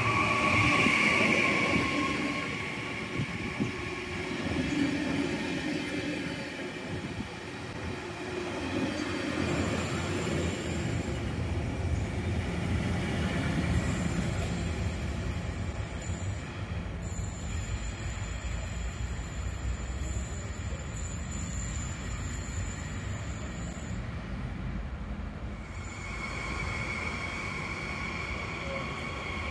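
Double-deck Twindexx regional train rolling past slowly with a steady rumble of wheels on rail. High-pitched wheel squeal comes in briefly about ten seconds in and holds for most of the middle of the passage before fading.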